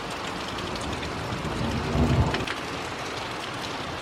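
Steady heavy rain, with scattered drops ticking close by. A short low rumble swells and fades about two seconds in.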